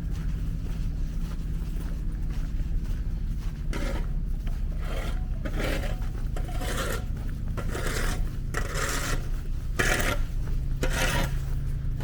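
Footsteps crunching through snow, starting about four seconds in and coming evenly about once a second, over a low steady rumble.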